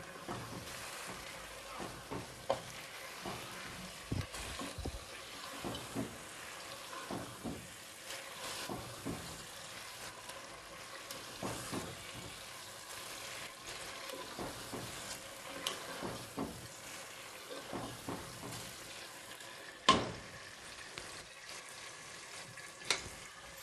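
Chicken pieces frying on medium heat in oil with tomatoes and spice masala in a pot, a steady sizzle under the scraping and clacking of a spoon stirring them. One louder knock comes near the end.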